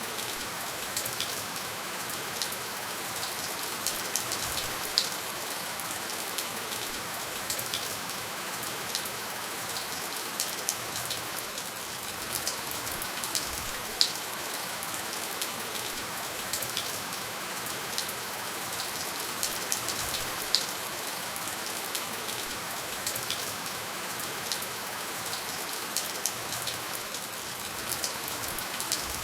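Steady rainfall hissing, with scattered individual drops ticking sharply on a surface, a few louder than the rest; no thunder.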